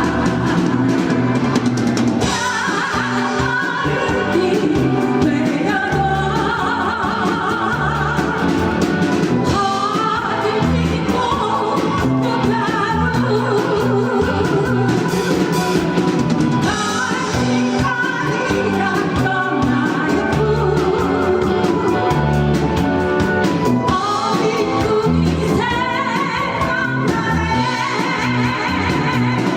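Live amateur rock band playing a Korean pop-rock song, with a singer over drum kit, bass and electric guitar.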